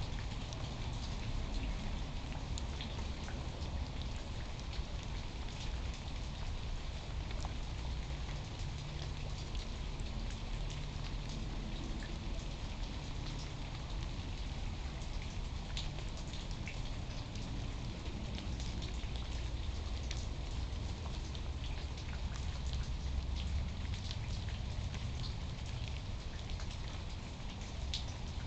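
Steady rain falling, with many individual drops ticking sharply close to the microphone and a low steady rumble underneath.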